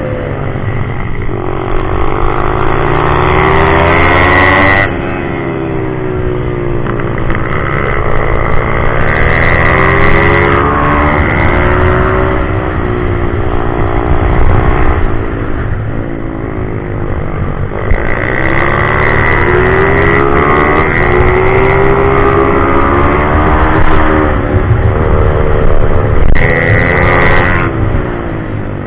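Pit bike's single-cylinder four-stroke engine at racing revs, climbing in pitch through the gears with sudden drops at each shift, then falling away and climbing again lap-wise as it brakes and accelerates out of corners.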